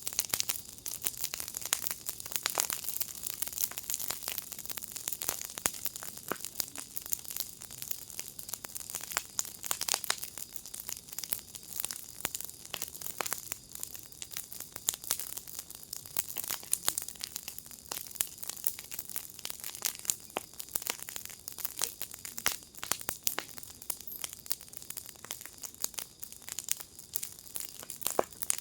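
Wood fire crackling in a firepit: many sharp irregular pops and snaps over a steady hiss.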